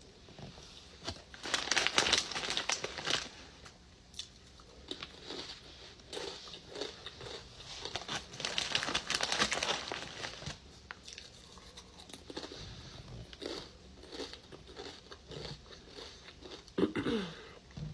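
Close-up crunchy chewing and biting of a chili dog topped with jalapeño peppers, in two loud bouts about a second in and about eight seconds in, with softer chewing between. Near the end comes a brief falling hum of voice.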